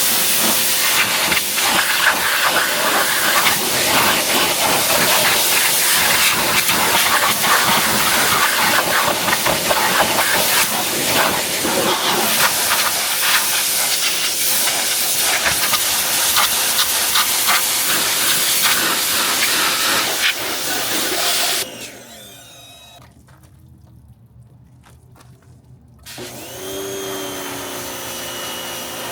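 Pressure washer spray blasting against a car body: a loud, steady hiss of water that cuts off suddenly about three-quarters of the way through. A quieter stretch follows, then near the end a steady pitched sound comes in.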